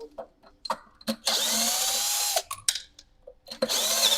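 Cordless drill or power screwdriver running in short bursts, each spinning up in pitch and holding for about a second: one burst about a second in and another near the end, with small clicks between.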